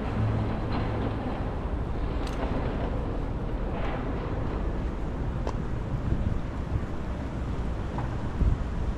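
Wind buffeting the microphone in a steady low rumbling rush, with a stronger gust thumping about eight seconds in.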